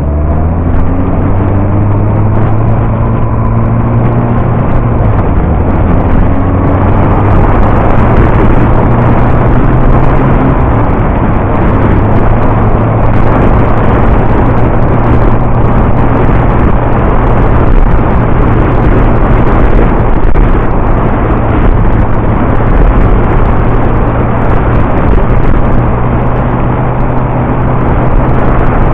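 Yamaha R1 inline-four motorcycle engine pulling up through the revs in the first few seconds, then holding a steady cruise. Heavy wind rush buffets the bike-mounted camera's microphone.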